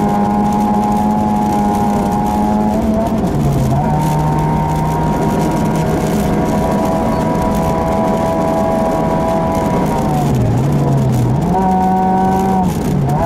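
Ford Fiesta 1.6 Sport's four-cylinder engine running hard at high, steady revs under rally driving, heard from inside the cabin over constant road noise. The revs drop sharply about three seconds in, dip again around ten seconds, climb back and drop once more near the end.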